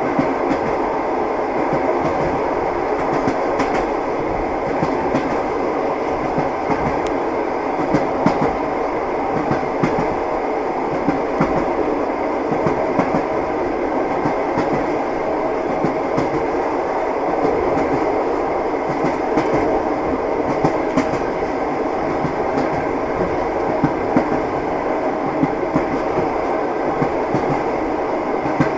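Train wheels knocking over the rail joints, the familiar clickety-clack, over a steady rolling rumble of the moving train. The short sharp clicks come irregularly.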